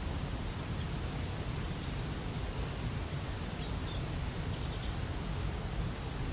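Waterfall rushing steadily, with a few faint bird chirps over it about halfway through.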